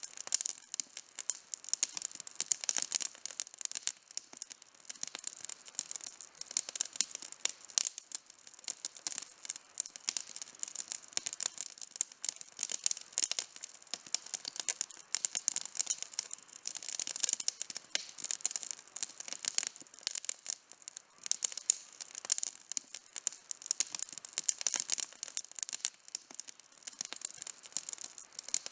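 Outdoor campfire burning, its wood crackling and popping in a dense, continuous stream of sharp small snaps.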